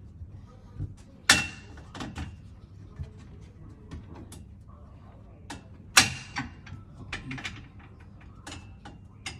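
Irregular clicks and knocks of bed-frame parts being handled and fitted during assembly, some with a short metallic ring. Two knocks, about a second in and about six seconds in, are much louder than the rest.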